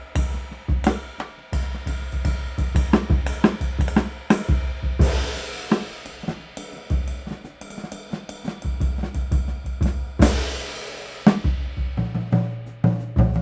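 Drum kit playing a steady groove of kick, snare and hi-hat. A 19-inch PGB "Car crash" crash cymbal (1457 g) is struck for two long washes, about five seconds in and again near ten seconds.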